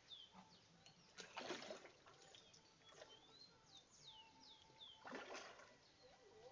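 Faint birdsong: a run of short, quick chirps falling in pitch, with two brief noisy bursts, one about a second and a half in and one about five seconds in.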